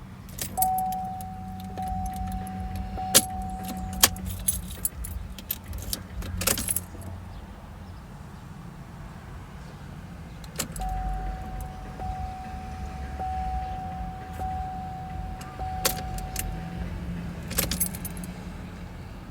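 A car's electronic warning tone sounds steadily for about three and a half seconds and again for about six seconds, with sharp clicks, jingling and a low hum, as a 2013 Buick LaCrosse fails to start. The engine does not run.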